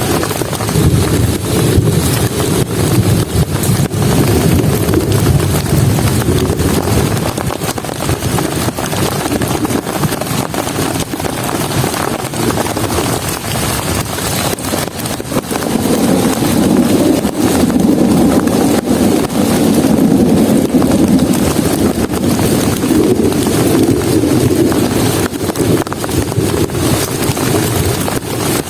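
Heavy rain pouring down steadily, with a deep rumble that swells and fades, strongest about sixteen to twenty-six seconds in.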